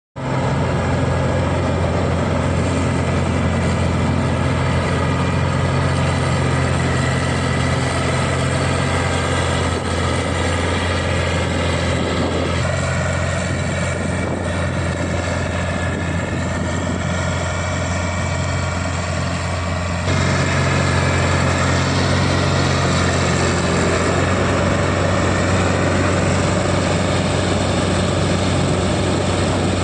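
A large farm machine's diesel engine running steadily under load, with a deep hum and a droning whine above it. Its tone changes abruptly twice, about a third and two-thirds of the way through.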